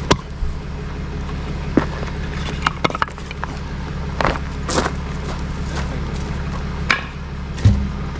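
A vehicle engine idling steadily, with scattered clicks and knocks over it.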